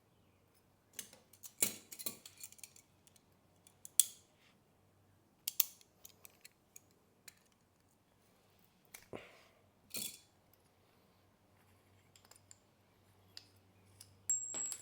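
Scattered metallic clicks and clinks of hand tools and small metal parts being handled, in several short clusters with pauses between, and a brief high ring near the end.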